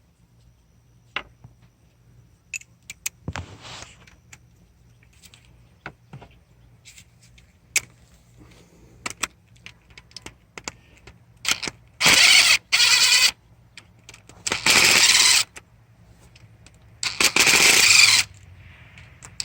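Light clinks and taps of tools and metal parts, then an impact wrench rattling in four short bursts as it runs bolts out.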